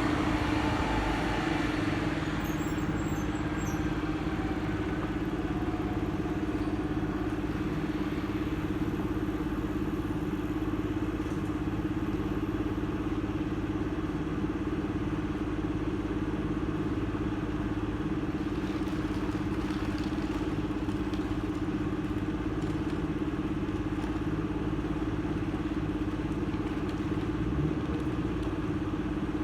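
Motorcycle engine idling at a steady, even pitch.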